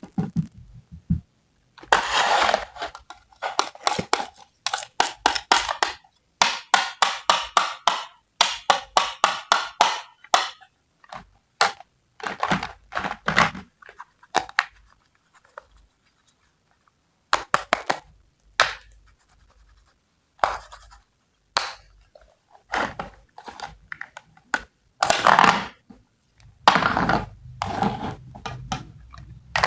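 Quick runs of short scraping and tapping strokes, like cutting on a board, about three to five a second, with a few longer scrapes lasting about a second.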